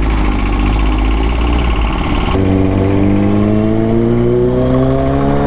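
Kawasaki Z900 inline-four engine running on the move, then from about halfway through pulling up steadily in revs as the bike accelerates.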